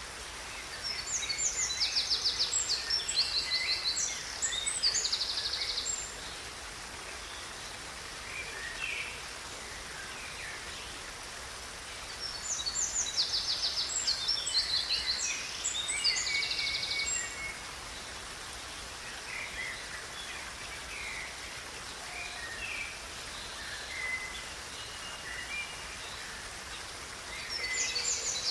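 A songbird singing in bouts of rapid, high trills and chirps, three phrases about ten seconds apart, with softer calls in between, over a steady hiss of flowing river water.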